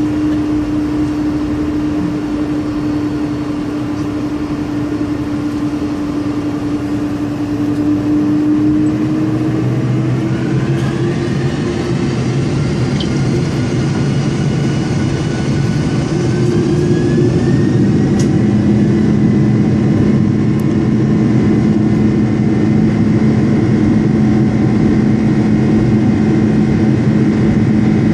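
Boeing 747-400's jet engines heard from inside the cabin: a steady hum, then from about ten seconds in a rising whine that climbs for several seconds and levels off, louder, as thrust builds for the takeoff roll.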